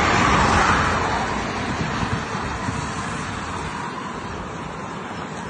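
Expressway traffic noise: the tyre and engine noise of passing vehicles, loudest at the start and fading away over the next few seconds.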